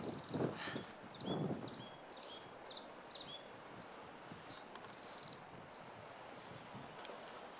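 A small bird calling: a string of short, high, down-slurred chirps, with a quick trill right at the start and another about five seconds in. Low gusts of wind on the microphone in the first second and a half.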